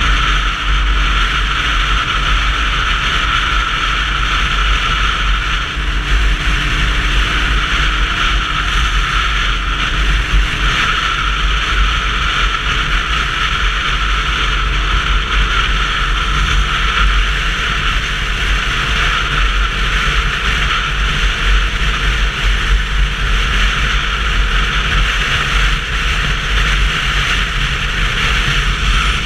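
Wind and road noise from a Sinnis Terrain 125cc motorcycle under way, with a deep rumble of wind buffeting the microphone and a steady hiss. It holds steady with no sudden events.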